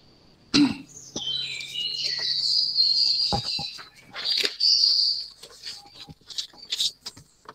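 A small bird chirping and twittering in rapid, high-pitched notes. A sharp knock comes about half a second in, and a few lighter clicks follow.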